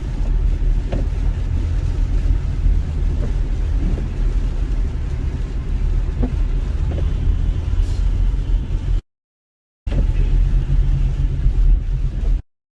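Steady low road and engine rumble of a car driving, heard from inside the cabin. It cuts out abruptly about nine seconds in, comes back briefly, then cuts out again.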